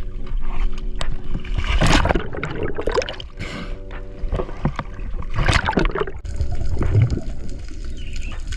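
Water splashing and sloshing around a kayak, in several separate surges, over a faint steady hum.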